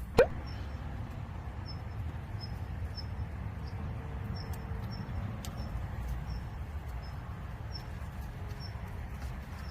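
A small bird chirping, short high chirps about twice a second, over a steady low rumble, with one loud, short sliding sound right at the start.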